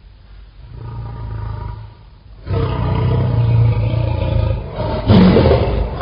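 Lion growling low, then breaking into a loud roar about two and a half seconds in, which swells again near the end.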